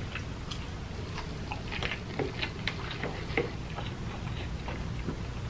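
Close-miked chewing of soft food, with irregular wet mouth clicks and smacks.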